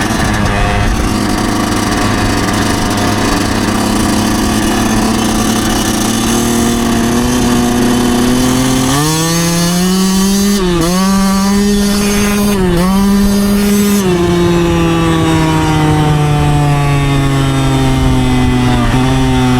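Yamaha YZ125's 125 cc single-cylinder two-stroke engine running under way, the revs creeping up, then rising sharply about nine seconds in. Two brief dips in revs follow, and then the revs fall away slowly.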